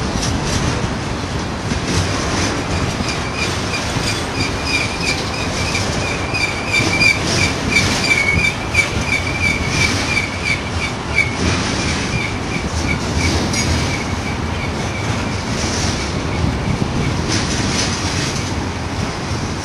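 Container train rolling past on a downgrade: a steady rumble of steel wheels on rail with clicking over the rail joints, and a high, steady wheel squeal that sets in about two seconds in and fades out a few seconds before the end.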